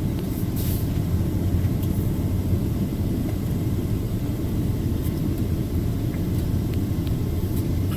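Steady road and engine rumble heard from inside a car's cabin while driving on a highway.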